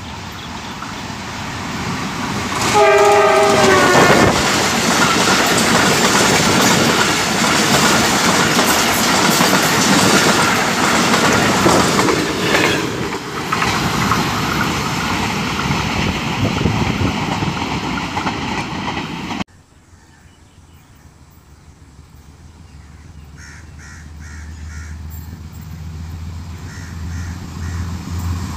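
Diesel-hauled passenger train approaching and passing close by: a horn blast of a little over a second about three seconds in, then wheels clattering over the rails as the coaches go by. After a sudden cut about two-thirds through, another diesel locomotive is heard approaching, its engine growing steadily louder.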